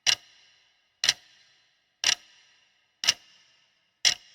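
Steady ticking like a clock: a sharp tick about once a second, each with a short ringing tail.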